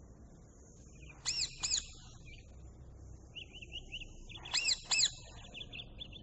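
Parrot calls: two pairs of short, rising-then-falling squawks about three seconds apart, with faint rapid chirping between and after them.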